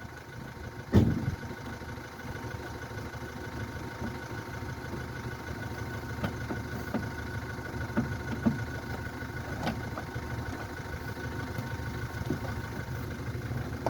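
Suzuki Swift's engine idling steadily, with a few short knocks and clicks, the loudest about a second in.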